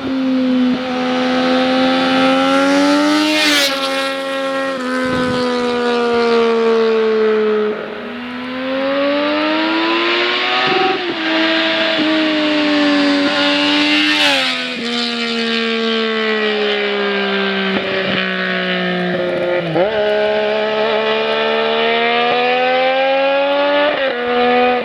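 Triumph Daytona 675's three-cylinder engine running loud through an open Bodis Q1 titanium exhaust with the dB-killers removed. The note climbs and falls with the throttle, dropping sharply about three and a half seconds in and twice more around the middle.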